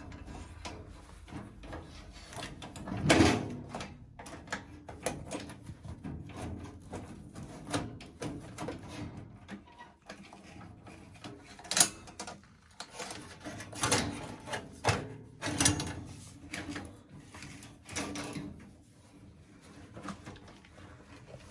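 Irregular knocks, clicks and scraping from hands working a gas water heater's burner assembly back into place in a tight space. The loudest knocks come about three seconds in and near twelve seconds, with a cluster more a few seconds later.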